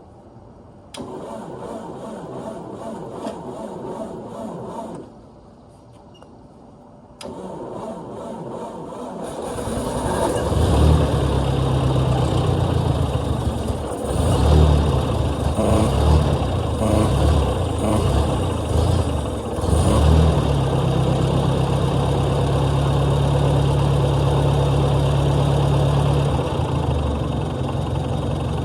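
A 1955 Ford 640 tractor's four-cylinder gasoline engine being cranked by its starter twice, the second try catching about nine seconds in. It runs unevenly, speeding up and dropping back, then settles into a steady idle.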